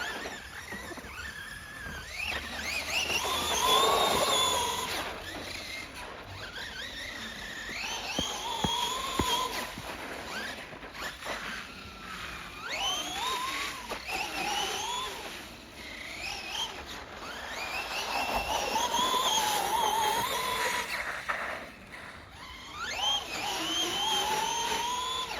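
Electric RC monster truck (Losi Grave Digger on a 3S battery) driving, its brushless motor and gears whining. The whine rises in pitch with each burst of throttle and falls back, about six times.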